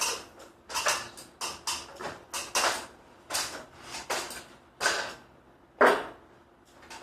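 A series of short clattering knocks and scrapes of hard objects being handled, about a dozen of them, with the sharpest knock near the end.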